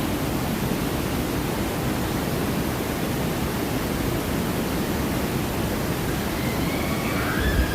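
Steady rush of falling water, like the artificial waterfalls and rapids of a river-rapids ride, an even hiss with no breaks.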